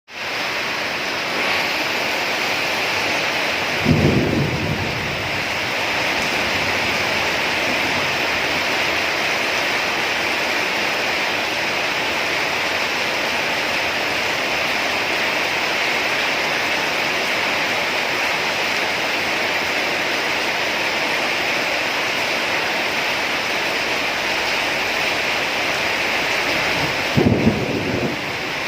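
Heavy rain falling steadily in a dense, even hiss. Two short, louder, deeper sounds come through it, about four seconds in and again near the end.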